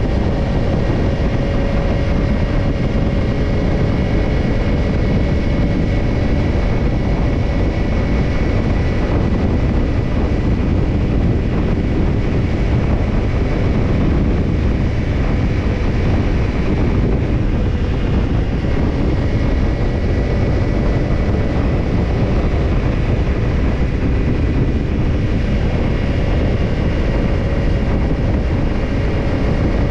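Kawasaki Ninja 250 parallel-twin motorcycle with a BEET NASSERT Evolution Type II titanium slip-on muffler, running steadily at an even engine speed, with wind noise on the microphone.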